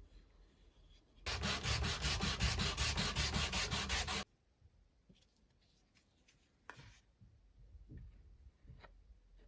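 Rapid rhythmic abrasive scrubbing on rusty iron, about seven strokes a second, starting about a second in and stopping abruptly after about three seconds; then a few faint clicks and light scrapes.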